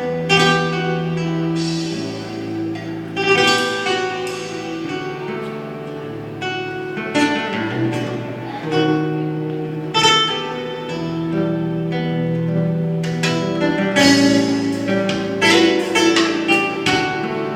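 Live instrumental music: guitar playing with plucked notes and rhythmic strums, over low notes held for a few seconds at a time.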